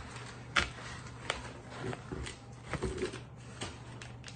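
Handling noises as sneakers are picked up and shown: a sharp knock about half a second in, then a few softer knocks and rustles.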